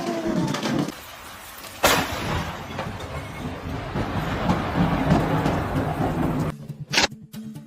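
Thunderstorm: rain with rumbling thunder, and a sudden loud crack about two seconds in.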